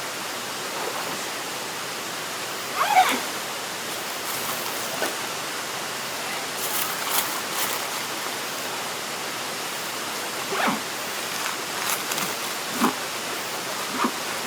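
A river running steadily close by, with a few short clicks and knocks scattered over it.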